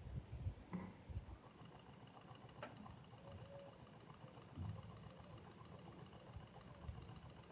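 Small double-acting engine running steadily with a fast, even beat, over a steady high hiss from its leaks.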